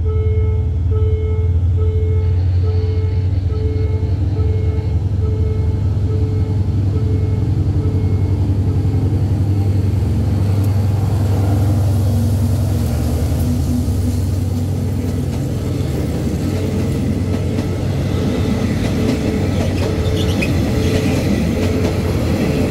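Diesel locomotive passing close by at track level, its engine giving a deep steady hum, followed by passenger carriages rolling past with a growing rumble and rattle of wheels on rail in the second half. A repeating beeping tone, about two a second, sounds throughout.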